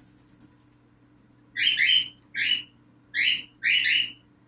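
Pet cockatiels giving four short, harsh chirping calls in quick succession, starting about a second and a half in.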